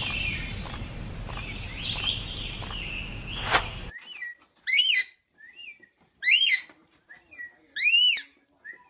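Bird calls: faint chirping over a background hiss, then, after a sudden change about four seconds in, three loud whistled calls, each rising and falling in pitch, about a second and a half apart, with softer short notes between them.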